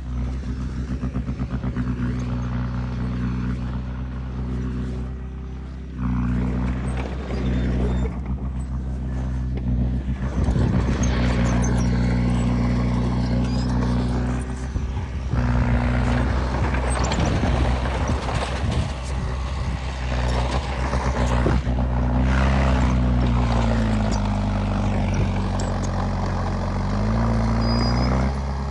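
Bulldozer's diesel engine running steadily under a rough clattering of tracks and soil; the engine note sags for a few seconds near the end as it takes load, then climbs back.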